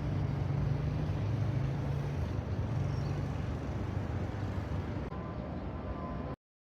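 Steady low rumble of road traffic, which cuts off abruptly shortly before the end.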